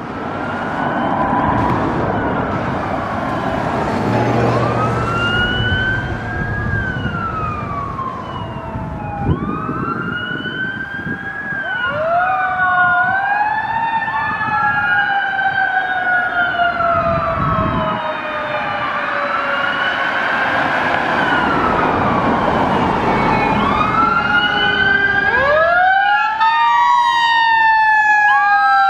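Fire engine's Federal Q mechanical siren, repeatedly winding up quickly and coasting down slowly in long falling wails, getting louder near the end.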